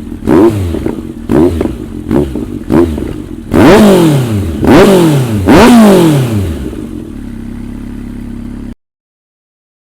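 Honda CB1300 Super Four SC54's inline-four engine through a GP-style aftermarket exhaust, revved in a series of throttle blips: four quick short blips, then three longer, bigger revs whose pitch falls back each time, before it settles to a steady idle and the sound cuts off abruptly. The exhaust pops and crackles as the revs drop, which the owner wonders is down to the stock fuel setting.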